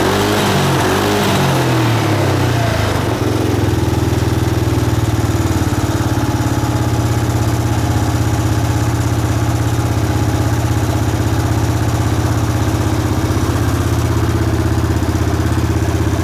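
Yamaha Cygnus X SR scooter's single-cylinder four-stroke engine breathing through an SP Tadao aftermarket muffler: a few throttle blips in the first three seconds, then a steady idle.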